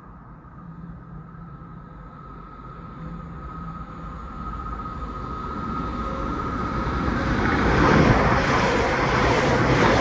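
Electric passenger train approaching along the line and running alongside the platform. A faint steady high whine carries through the approach, then a rushing rumble builds to its loudest about eight seconds in as the train draws level.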